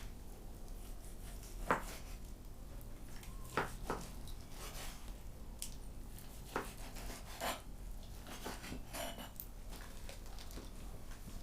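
Scattered light clinks and knocks of dishes and cutlery, about half a dozen separate strokes over a low steady background hum.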